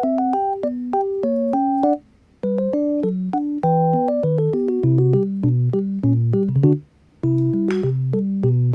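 Background music: a light electric-piano melody over bass notes. It cuts out briefly twice, about two seconds in and again near seven seconds.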